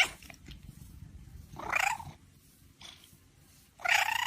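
A cat purring, with two short meows about two seconds apart. A sharp click right at the start is the loudest sound.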